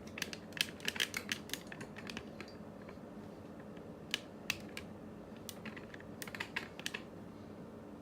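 Quick, light clicks and taps of small tools and parts being handled on a workbench, coming in clusters, over a faint steady hum.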